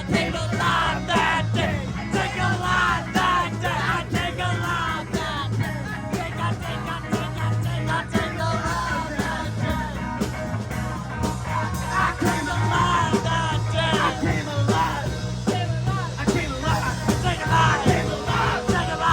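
A four-piece rock band playing live, with steady drum hits under bass and guitar, and singing.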